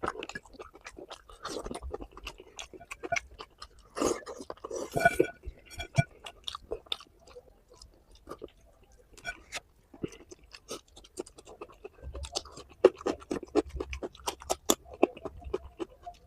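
A person chewing and smacking a mouthful of curry and rice, close to the microphone, with irregular wet clicks and a louder, denser stretch about four seconds in.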